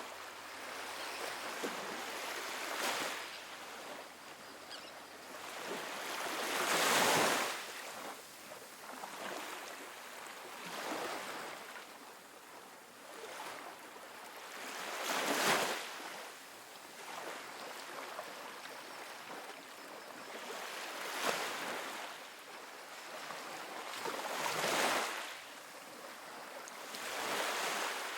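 Small ocean waves breaking and washing onto a sandy beach, each wash swelling and fading every few seconds, the biggest about a quarter, half and nine-tenths of the way through.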